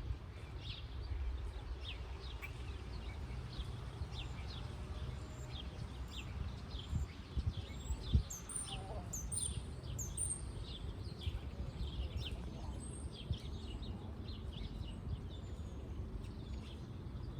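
Songbirds chirping, many short quick chirps repeating, with higher-pitched calls joining in about halfway. A steady low rumble runs underneath, and a couple of sharp thumps come about eight seconds in.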